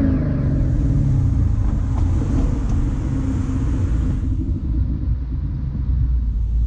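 Ford Mustang GT's 5.0-litre V8 rumbling at low speed, heard from inside the cabin.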